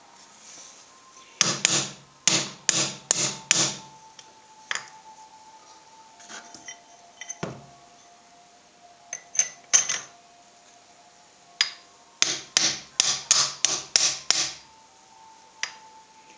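Hammer blows on metal: a quick run of about six strikes, a few scattered single knocks, then another quick run of about seven strikes, with a faint ringing between blows.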